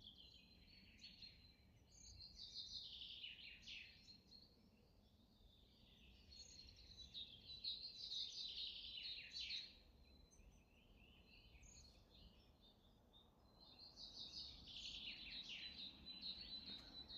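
Small songbirds twittering faintly in three long bursts of rapid chirps, with quieter pauses between them.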